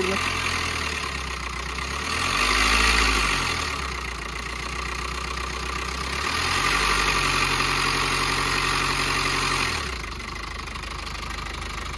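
2018 Maruti Suzuki Swift Dzire engine idling and lightly revved twice, first in a short rise and fall about two seconds in, then held higher from about six and a half to ten seconds before dropping back to idle. It makes an abnormal noise that the mechanic puts down to misaligned camshaft timing from a weak timing chain.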